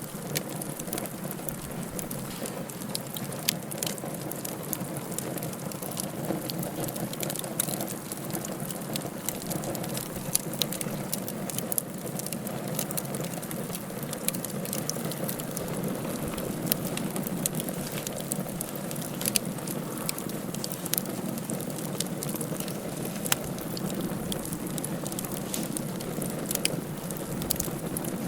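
Wood fire burning in a fireplace: irregular sharp crackles and pops over a steady hiss and low rumble.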